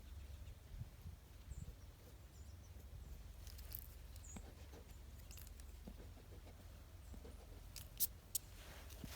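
Faint outdoor backyard ambience: a low wind rumble with a few brief, high-pitched bird chirps and scattered light ticks, then two sharp clicks near the end.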